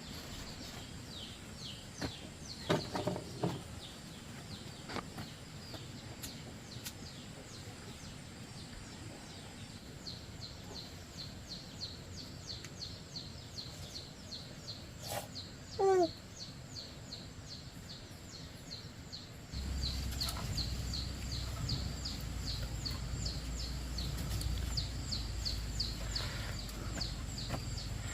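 Outdoor rural ambience dominated by a rapid high chirp repeating a few times a second. A few knocks come early on, and a single short falling call is heard a little past the middle. The background noise suddenly becomes louder about two-thirds of the way through.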